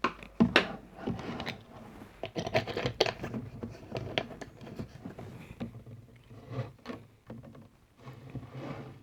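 Close-miked gulping of Pocari Sweat sports drink: a fast, irregular run of swallows with wet mouth clicks, loudest about half a second in.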